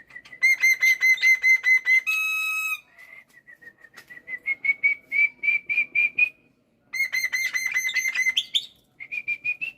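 Black-winged starling (jalak putih) singing vigorously: rapid runs of repeated clear whistled notes, about six a second, one long flat note about two seconds in, then further runs that rise slightly in pitch.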